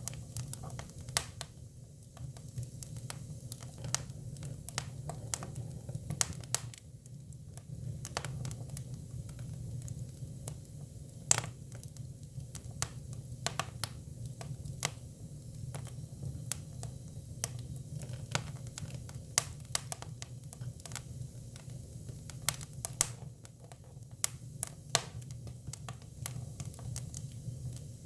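Hinoki (Japanese cypress) firewood burning, with irregular sharp crackles and pops over a steady low hum.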